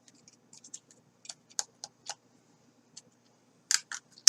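Irregular plastic clicks and taps from an action camera's waterproof housing being handled and worked open to free the camera, the loudest clicks near the end.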